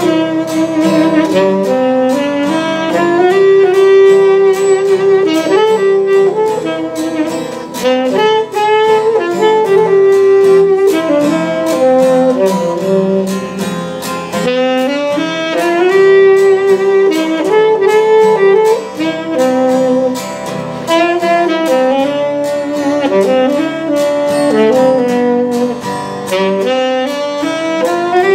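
Saxophone playing a melodic solo over plucked guitar accompaniment, an instrumental break in a gospel song.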